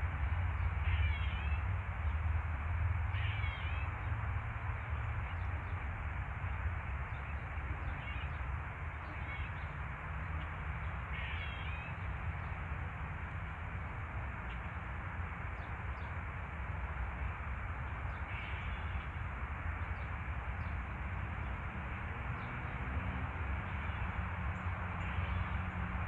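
Short, high bird calls, a handful of brief chirps every few seconds, over a steady background rush and low rumble.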